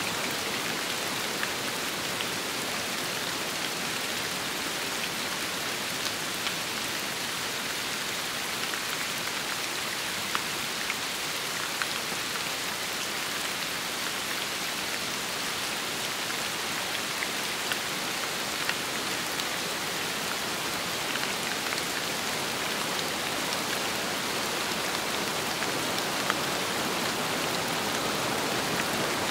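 Steady rain with wind, an even hiss dotted with sharper individual drop ticks.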